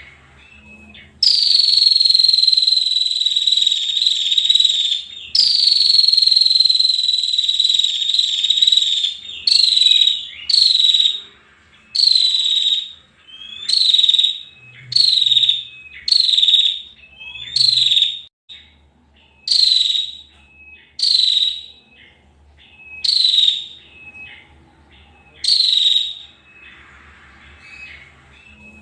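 Female prenjak (prinia) calling: two long, buzzy, slightly falling notes of about four seconds each, then a run of many shorter buzzy calls about one a second.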